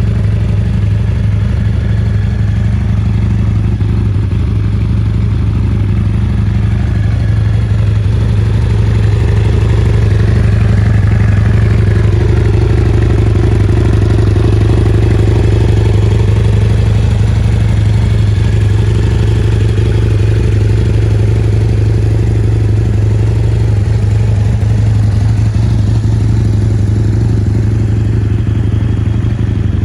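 2012 Husqvarna Nuda 900's 898 cc parallel-twin engine idling steadily.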